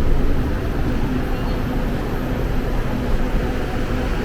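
Steady low rumble of a moving vehicle heard from inside it, with a faint steady hum.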